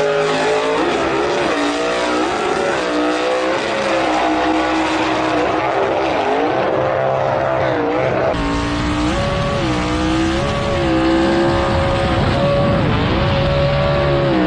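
Engine running hard under high revs, its pitch wavering and dipping again and again, with an abrupt change about eight seconds in.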